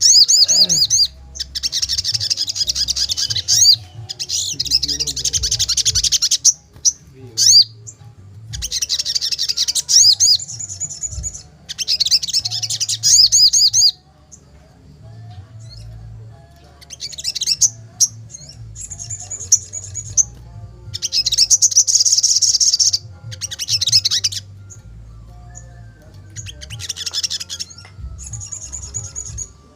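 Sogon bird singing in an excited, fired-up state: repeated bursts of rapid, high warbling notes, each lasting one to three seconds, with short pauses between them.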